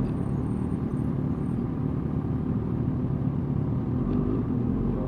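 Suzuki GSX-R 1000 sport bike's inline-four engine running at a steady pitch while riding, with low rumble on the microphone.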